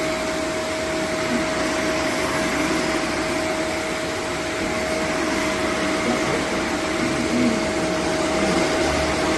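Vacuum cleaner running steadily, its motor giving a constant whine over an even rush of air.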